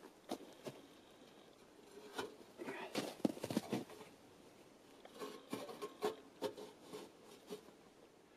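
Handling noises from fitting a tent stove and its flue pipe into place: scattered light knocks and clicks with some rustling. The sounds come in a dense cluster about three seconds in and again a little later.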